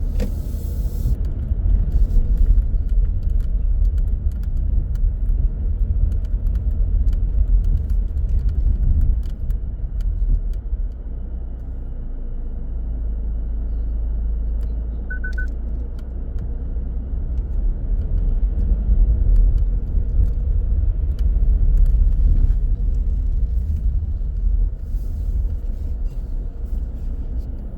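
A car driving on city streets: a low rumble of road and engine noise that swells and eases with the driving. A brief high beep in a few quick pulses sounds about halfway through.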